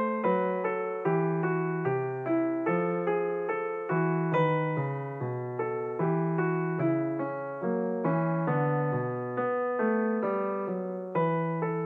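Background piano music: a slow, even run of struck notes, each ringing and fading before the next.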